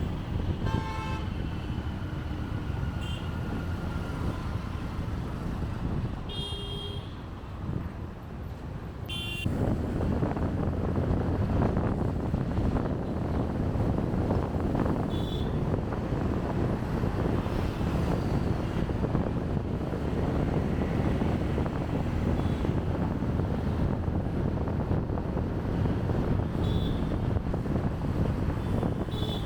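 City street traffic heard from a moving motorbike: a steady rumble of engines and road noise, with short vehicle horns honking several times. The rumble grows louder about a third of the way in.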